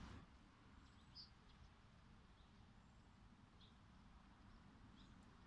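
Near silence: quiet outdoor ambience with a faint low rumble and a few brief, scattered chirps from small birds.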